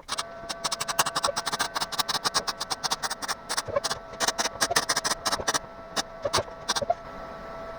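Welding arc crackling as the taillight panel's sheet metal is welded in: a rapid, irregular run of sharp snaps that stops about seven seconds in. A steady hum runs underneath.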